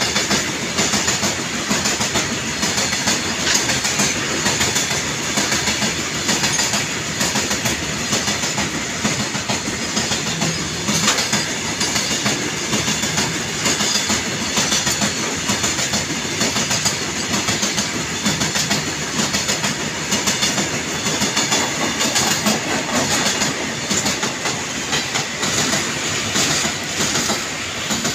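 Passenger train coaches rolling past close by: a steady rumble with the clatter of steel wheels on the rails, unbroken throughout.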